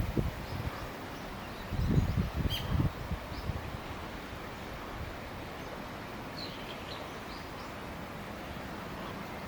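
Outdoor ambience: wind buffeting the microphone near the start and again about two seconds in, over a steady background hiss, with a few faint, high bird chirps.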